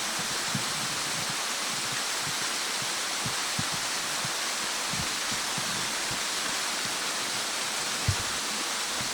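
Waterfall rushing in a steady, unbroken hiss of falling water, with a few soft low thumps, one clearer about eight seconds in.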